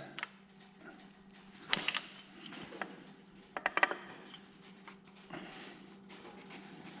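Light metallic clinks as a steel camshaft retainer plate is worked into place against the cam gear: one sharp clink with a brief ring a little under two seconds in, and a quick cluster of clinks a little before four seconds, over a faint steady hum.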